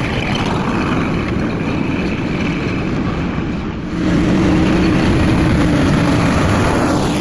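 Tractor engine working under load as it drags an M4 Sherman tank along on its newly fitted tracks. The engine note grows louder and steadier about four seconds in.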